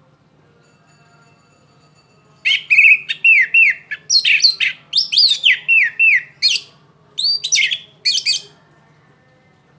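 Orange-headed thrush singing in a rapid, dense run of song, the fast continuous style kicau fanciers call trotol: quick falling whistled notes mixed with high sweeping chirps. The song starts a couple of seconds in and breaks off about a second before the end.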